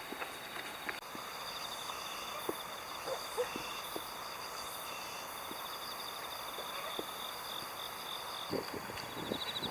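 Insects trilling steadily at a high pitch, with scattered soft clicks and taps.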